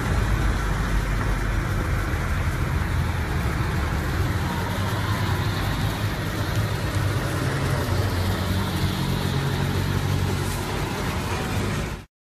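Car engines running, with a steady wash of engine and outdoor noise, ending abruptly near the end.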